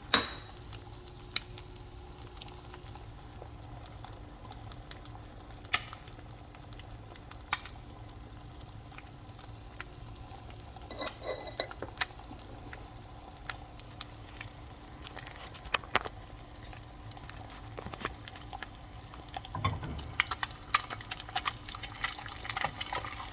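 An egg frying in a freshly seasoned cast iron skillet: a steady sizzle with sharp ticks now and then.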